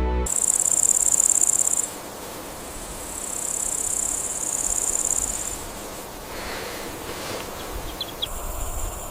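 Insect trilling at a high pitch in long bursts: one of about a second and a half, a longer one of about two and a half seconds, and another starting near the end, over a steady background hiss.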